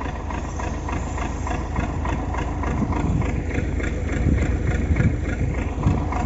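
MTZ (Belarus) tractor's diesel engine running steadily with an even, fast pulse.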